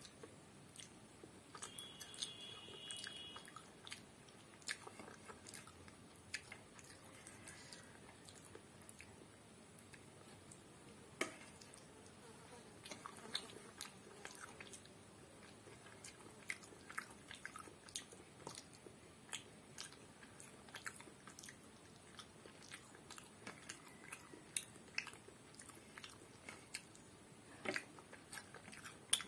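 Close-up soft, wet chewing of a mouthful of rice and curry, with frequent small mouth clicks and lip smacks scattered throughout.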